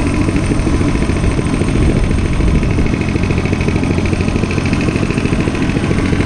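Dirt bike engine running loudly at a fairly steady pitch.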